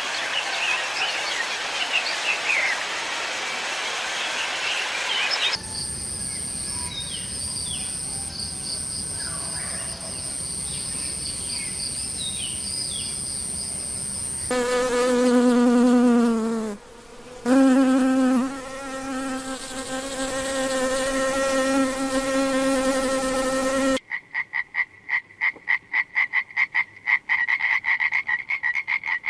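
A run of separate outdoor animal recordings cut together. First come short chirps over a noisy background. Then a steady high-pitched trill with chirps. Then a loud, steady buzz that dips in pitch and breaks off briefly. Last, a fast pulsing call repeating about eight times a second.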